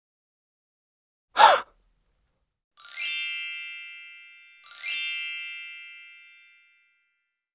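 Two cartoon chime sound effects, each a quick upward run of bell-like tones that settles into a ringing chord and fades over about two seconds, the second coming about two seconds after the first. Before them, about a second and a half in, a short sound.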